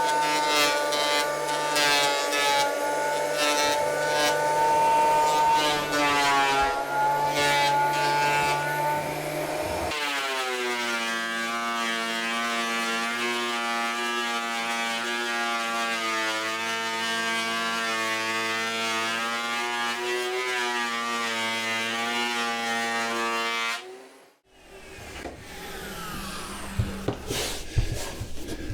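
Thickness planer running with a high, steady whine while a softwood end-grain board feeds through, the cutterhead crackling and clicking against the end grain for the first ten seconds, then a smoother whine. The sound cuts off abruptly about 24 seconds in, followed by quieter knocks and handling.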